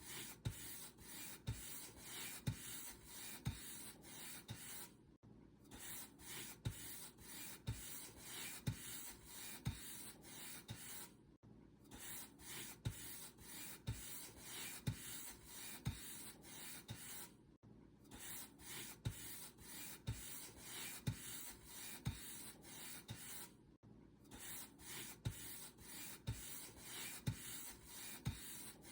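Paint brush stroking back and forth across a surface, about two strokes a second, each with a soft low thump. The strokes pause briefly about every six seconds.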